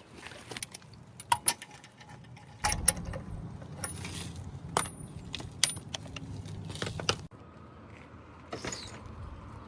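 Metal tools and car parts clinking and rattling in a string of sharp, separate clinks, with a low rumble running through the middle of the stretch.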